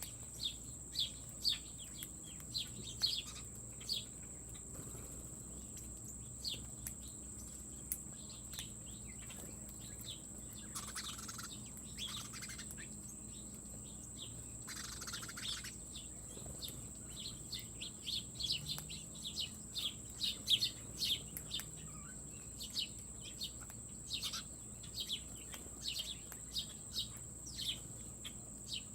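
Small birds chirping at a feeder: many short, sharp chirps, busier in the second half, over a steady high-pitched whine. Two brief rushes of noise come around the middle.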